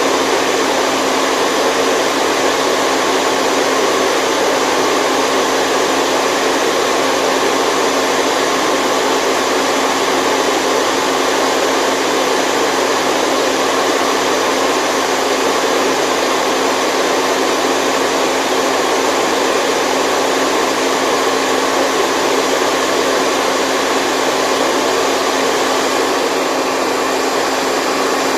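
Steady white noise for lulling a baby to sleep: a constant, even hiss that does not change.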